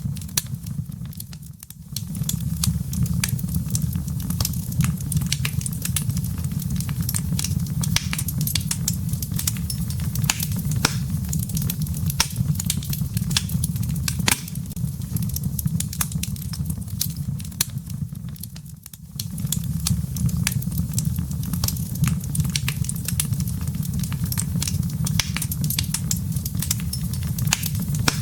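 Wood fire crackling in a fireplace: a steady low rumble of flames under frequent sharp crackles and pops. The rumble drops away briefly twice, once near the start and again about two-thirds of the way through.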